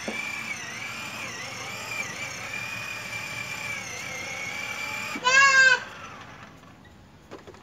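Child's ride-on toy motorbike running, its small electric motor giving a steady high whine that wavers slightly, then stops about five and a half seconds in. Just before it stops comes a short, loud, high-pitched squeal lasting about half a second.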